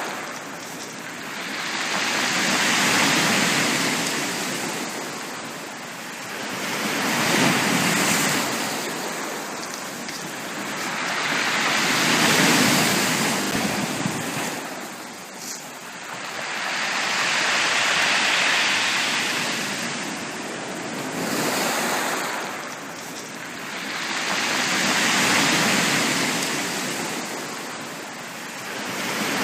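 Sea waves breaking and washing up a beach, swelling and fading about every five to six seconds, five times over.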